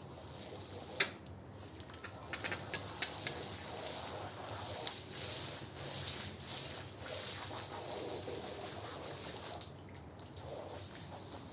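Wet carpet being washed: watery sloshing and trickling with a few sharp clicks, one about a second in and a cluster around two to three seconds in.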